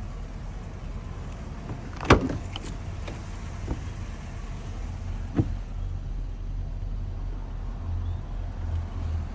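Steady low rumble with a sharp knock about two seconds in, a few faint clicks, and a second, smaller knock a few seconds later.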